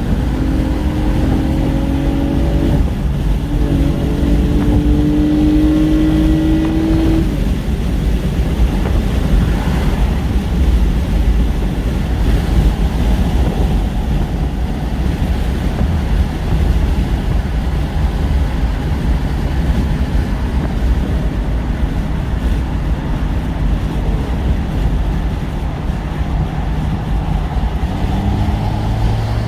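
Car being driven: the engine note climbs slowly over the first seven seconds, then gives way to a steady low rumble of road and wind noise.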